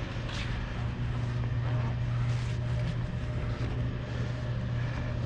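Garage door opener running as the door closes: a steady low motor hum.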